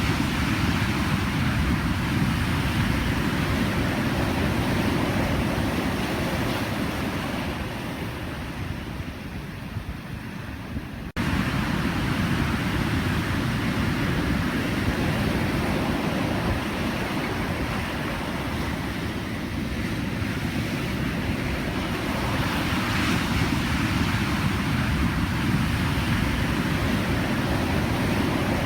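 Pacific Ocean surf: a steady rushing wash of breaking waves. It eases off a little about eight seconds in, then comes back suddenly at full strength about eleven seconds in.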